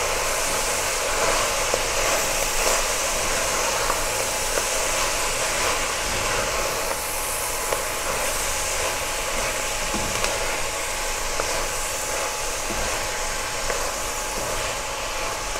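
Steady sizzling hiss of chicken and masala frying in hot oil in a pot as fresh fenugreek leaves are stirred in with a silicone spatula, with a couple of faint knocks of the spatula.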